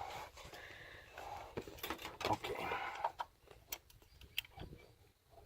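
Faint scattered clicks and knocks of hand tools being handled, a socket wrench at work on the oil filter cap of a 6.0 Power Stroke diesel.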